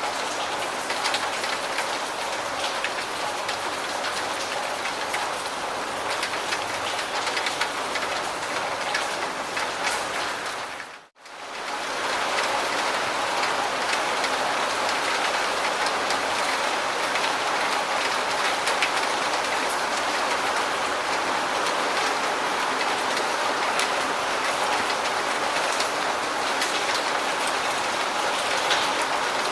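Steady rain falling, with many small drop ticks over an even hiss. About eleven seconds in the sound fades out to silence for a moment, then returns.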